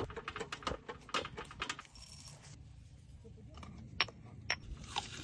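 Metal cookware and utensils clinking and clattering in a string of short sharp knocks, two of them ringing briefly near the end.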